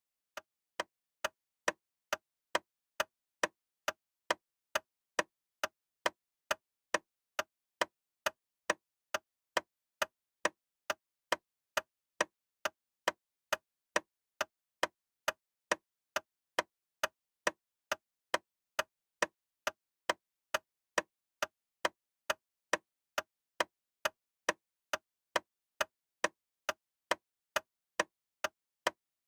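Ticking: sharp, evenly spaced clicks at a little over two a second, keeping a steady rhythm.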